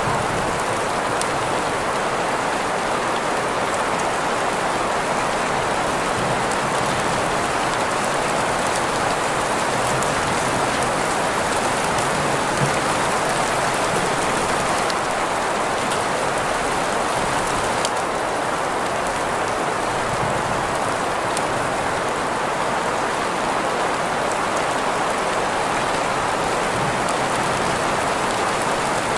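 Sleep track of rain sounds layered with green noise: a steady, even hiss strongest in the middle range, with faint scattered drop ticks over it.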